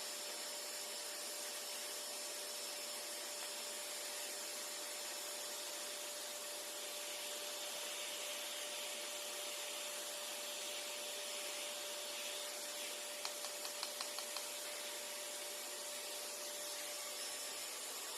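Vacuum cleaner running steadily through a micro detailing kit attachment: an even airflow rush with a constant whine. About two-thirds of the way through there is a quick run of about six small clicks.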